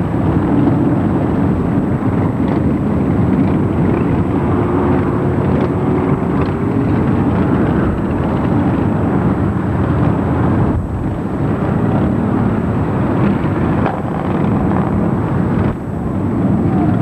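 Many motorcycle engines running together in a loud, steady rumble, with a faint rising tone from one of them about four to seven seconds in.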